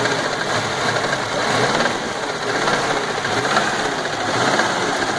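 1988 Chevrolet Chevette 1.6 gasoline four-cylinder engine running steadily with a strange rattling noise that the owner cannot identify.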